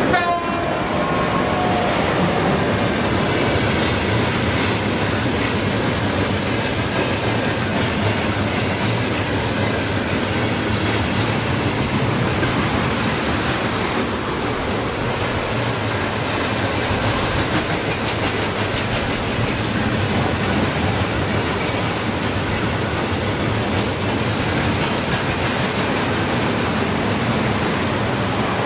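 A train rolling past close by: a steady, unbroken run of wheels clattering over the rail joints.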